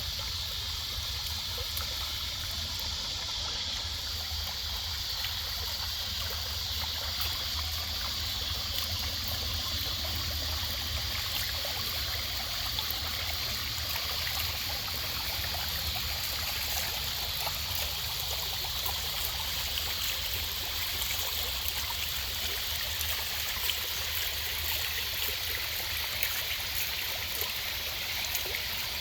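Garden pond waterfall: water splashing and trickling steadily into the pond, with a steady low rumble underneath.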